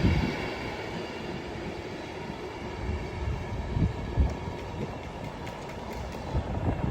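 Class 390 Pendolino electric train moving through the station: a steady rumble of wheels on rail, with a few low thumps about three to four seconds in.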